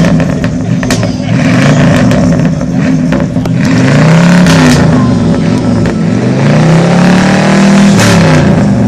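A car engine revved several times, its pitch climbing and falling back, with a longer rev near the end.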